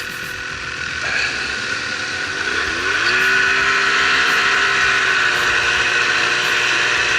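Snowmobile engine running, then revving up about two and a half seconds in and holding at high revs, over a steady hiss.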